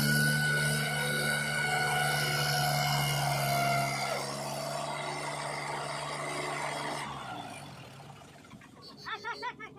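Diesel engine of heavy earthmoving machinery running steadily with a faint whine over it, then fading away about seven seconds in. Near the end a wavering, warbling sound starts.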